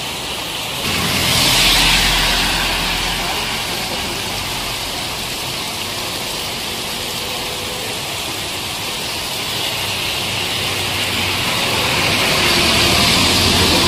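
Heavy rain pouring down and hitting a flooded road as a dense, steady hiss. It grows louder about a second in and again near the end, where a low rumble joins it.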